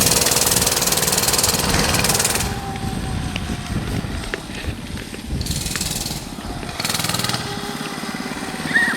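Small 110cc mini bike engine running with a rapid, even putter of firing pulses, dipping a little in level around the middle. Short bursts of hiss come and go over it.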